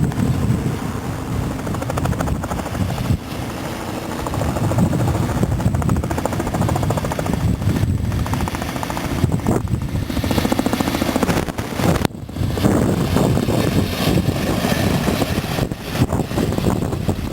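Peppercorn A1 steam locomotive 60163 Tornado, a three-cylinder Pacific, running past with its train in a loud, continuous mechanical rumble. The rumble grows brighter and hissier about two-thirds of the way through.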